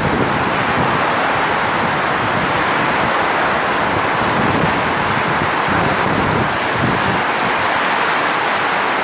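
Storm wind and rain blowing hard and steadily, with gusts rumbling on the microphone.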